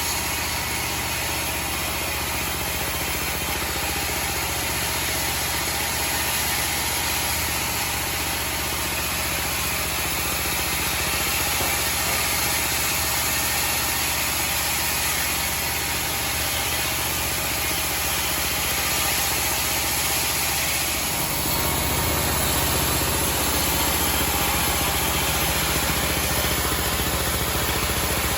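A homemade band sawmill running steadily, its engine and band blade making continuous machine noise. About two-thirds of the way in, the low hum shifts and stays changed.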